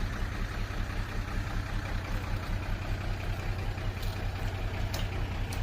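Heavy diesel engine of earthmoving machinery, a dump truck or a bulldozer, running steadily at low speed. A couple of faint ticks come near the end.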